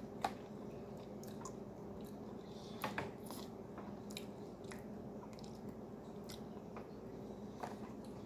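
A person chewing a mouthful of MRE cornbread, with scattered small clicks and crinkles of a foil packet handled in hand, the loudest about three seconds in. A steady low hum runs underneath.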